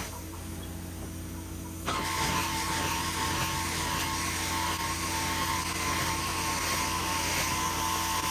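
Vacuum cleaner motor running steadily with a low hum and a high whine. Its high, airy part cuts out for about the first two seconds and then comes back abruptly.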